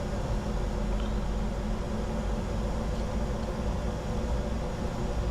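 Steady in-flight cockpit noise of a Bombardier Challenger 605 business jet: constant airflow and air-conditioning hiss over a low, even hum, with two faint ticks about one and three seconds in.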